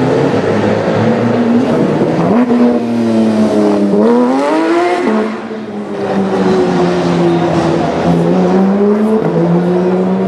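Porsche 991.2 GT3 RS's flat-six engine running loud through a Sharkwerks exhaust. About four seconds in it revs up quickly and drops sharply. It then holds a fairly steady pitch, stepping up slightly twice near the end.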